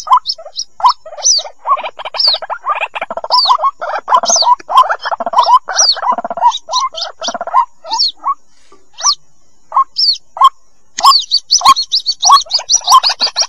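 White-breasted waterhen chicks calling: a rapid, continuous series of short high peeps that sweep up in pitch, layered over lower, rougher chattering calls, with a short lull about ten seconds in.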